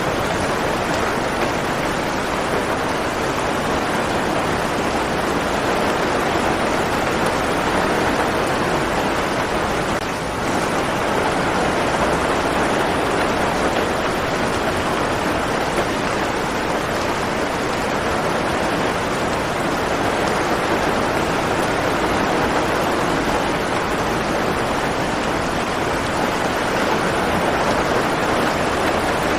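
Steady rain falling, an even, unbroken hiss with a brief slight dip about ten seconds in.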